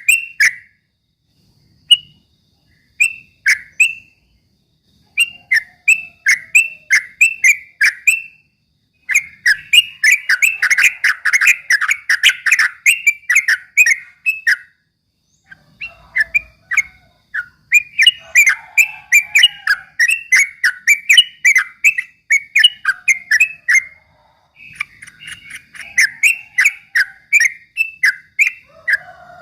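Yellow-vented bulbul (trucukan) singing its rapid 'ropel' song: quick strings of short, bubbly whistled notes, several a second. The song comes in bursts with brief pauses, one near the start and another about halfway.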